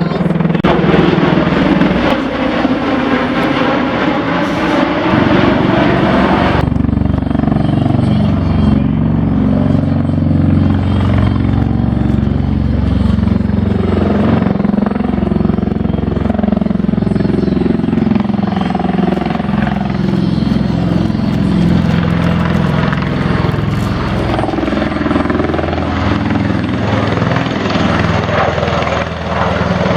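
Bell Boeing MV-22 Osprey tiltrotor flying a display, its two large proprotors and turboshaft engines making a loud, continuous rotor thrum. About six and a half seconds in the hissy upper part of the sound drops away, leaving the deep rotor throb.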